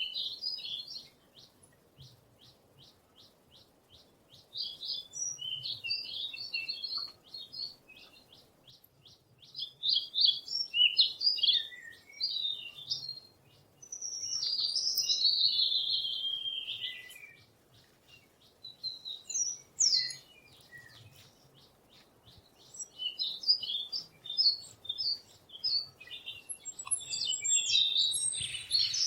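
Songbirds singing in short, high, warbled phrases a few seconds apart; the longest phrase, about halfway through, slides down in pitch. Between phrases there is a fast, even series of thin high ticks.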